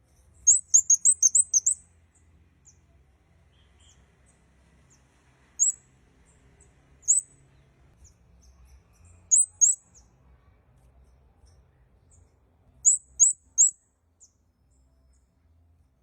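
A kemade kepala merah bird calling in very high, thin chirps. It opens with a quick run of about seven chirps, then gives single chirps, a pair, and a run of three, with pauses between.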